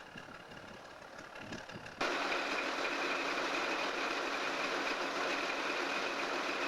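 Diesel locomotive engine running steadily close by, starting suddenly about two seconds in, with a steady whine over the engine noise.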